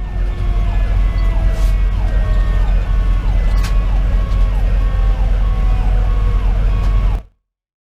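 Fire engine sirens sounding over the heavy rumble of its diesel engine. One siren repeats quick falling sweeps about twice a second over a slower, steadily falling tone. The sound cuts off suddenly near the end.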